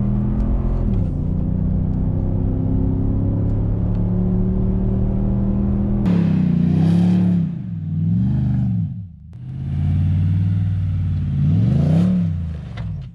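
Nissan Patrol Y62's V8 running through a twin 3-inch into single 3-inch stainless steel exhaust with a deep note. It idles steadily for about six seconds, then is revved and let fall back three times, and the sound cuts off near the end.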